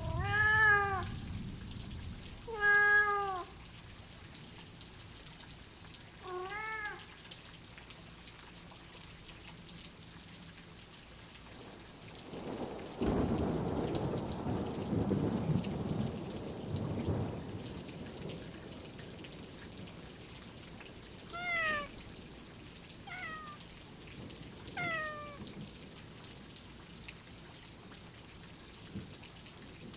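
Steady rain with a domestic cat meowing six times: three short meows in the first seven seconds and three more, falling in pitch, after about twenty seconds. A low roll of thunder starts suddenly near the middle and dies away over a few seconds.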